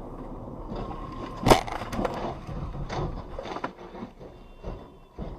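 Vehicle crash: a loud bang about a second and a half in, followed by several smaller knocks and crunches.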